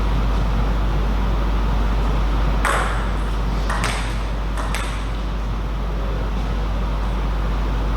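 Table tennis ball clicking sharply three times about a second apart, over a steady low hum.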